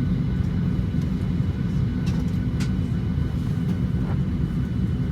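Steady low hum and rumble inside a parked Boeing 737-800's cabin, the air ventilation running with the engines not yet started, with a few faint clicks.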